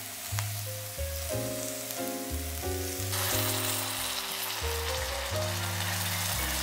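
Chopped mixture frying and sizzling in a skillet as it is stirred with a wooden spatula. The sizzle gets suddenly louder about three seconds in as crushed tomatoes are poured into the hot pan. Soft background music plays underneath.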